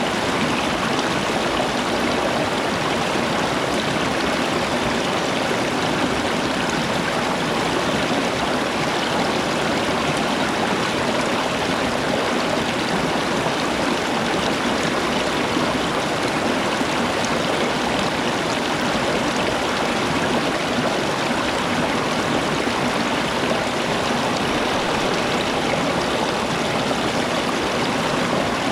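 Flowing water rushing steadily, without a break.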